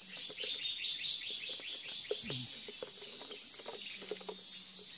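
A bird calls a quick run of about ten descending notes, about five a second, through the first two seconds, over a steady high-pitched drone of insects. A few soft clicks sound lower down.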